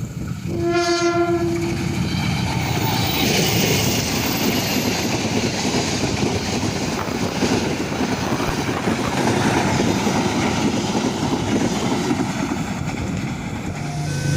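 Train horn sounds once, a single steady blast of about a second and a half, then a train passes the level crossing with a steady rush of wheel and rail noise.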